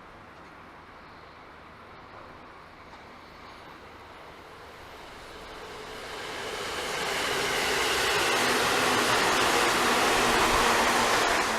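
Electric train passing on the JR Kyoto Line: a rushing rumble of wheels on rail that builds from about five seconds in, stays loud, and starts to fade right at the end.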